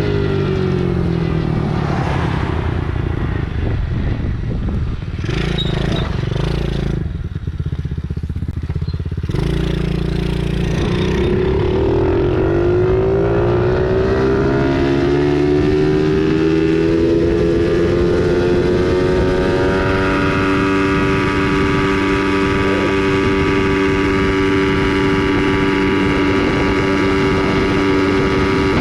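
Tao Tao 110cc four-stroke automatic pit bike engine. It winds down and runs low and rough for several seconds, then speeds up again a little under halfway through and holds a steady high speed.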